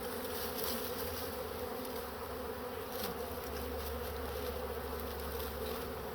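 A swarm of honeybees buzzing steadily, many bees in the air at once.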